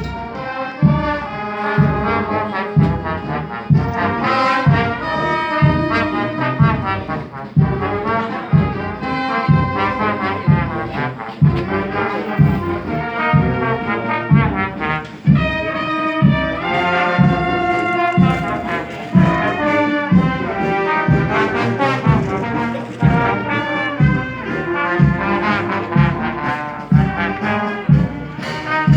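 Brass band playing a march-like tune, trombones and trumpets over a steady bass drum beat of about two strokes a second.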